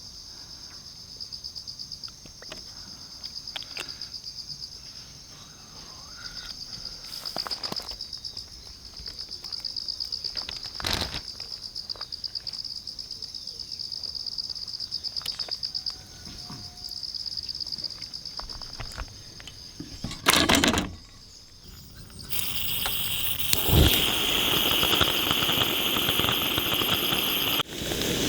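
Insects, crickets, chirping in a steady fast-pulsing high trill, with a couple of sharp knocks. About 22 seconds in it gives way to a louder steady hiss.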